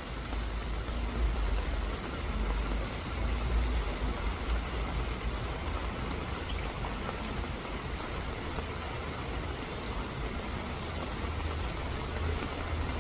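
Steady rain falling, an even hiss, with a low rumble underneath that swells and eases a little.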